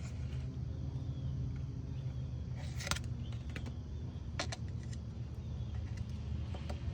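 Steady low rumble, with a few brief clicks about three and four and a half seconds in.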